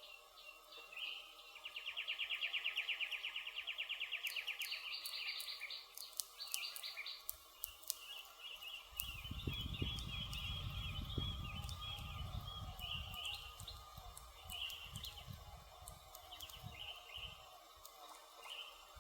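Birds singing, with a fast, loud trill of rapid repeated notes near the start and lighter twittering afterwards, over scattered sharp crackles of a wood campfire. About halfway through, a low rumbling with soft thumps comes in and fades again before the end.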